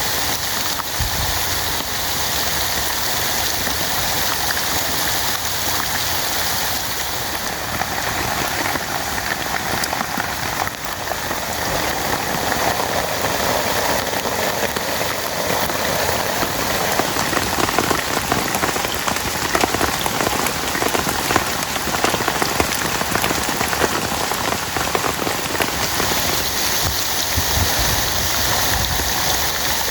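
Heavy rain falling steadily, a dense hiss with many individual drops ticking through it.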